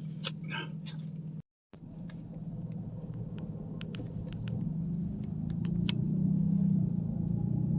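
Steady low drone of a vehicle cabin, swelling a few seconds in, with a few light clicks and taps scattered through it.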